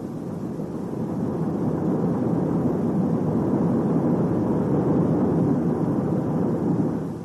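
A steady rushing noise, like a vehicle or aircraft passing, that builds over the first two seconds, holds, and cuts off sharply near the end.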